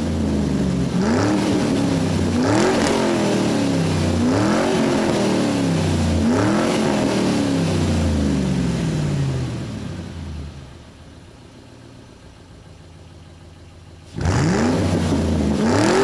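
Car engine revving in repeated blips, each one climbing and falling in pitch about every one to two seconds. It settles to a quieter idle about ten seconds in, then revs again near the end.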